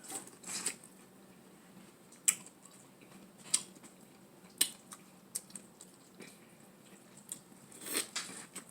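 Close-miked eating of crab: a series of sharp clicks and wet squishes, roughly one a second, from picking at shell and chewing the meat.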